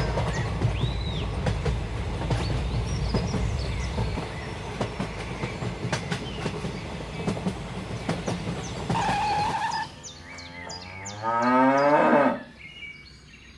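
A train running, a steady rumble with many clattering clicks, for most of the stretch. About ten seconds in, a cow gives one long, loud moo that rises in pitch, then stops.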